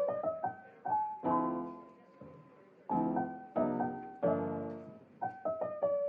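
Background music: a solo piano playing slow chords and a simple melody, with a brief pause in the middle.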